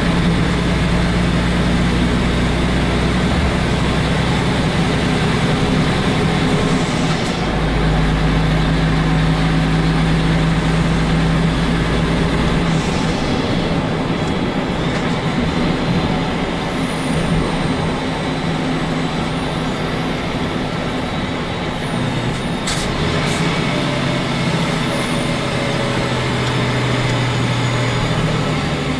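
Heavy truck's diesel engine running under way, heard in the cab with the roof hatch open. Its low note steps to a new pitch a few times.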